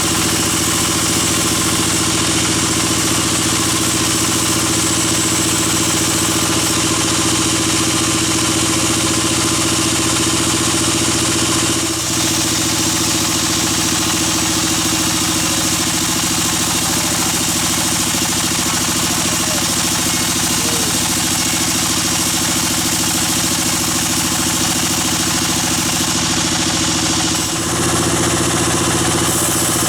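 Sawmill bandsaw machinery running steadily with a constant mechanical hum and wide noise, briefly dipping in level about twelve seconds in and again near the end.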